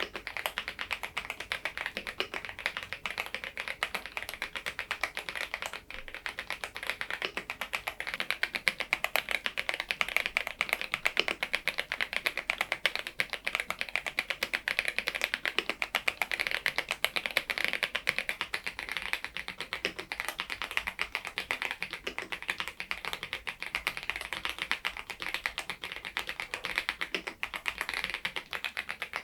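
Continuous typing on an AULA F99MAX mechanical keyboard with Leobog Reaper switches: a fast, dense, steady run of keystroke clacks.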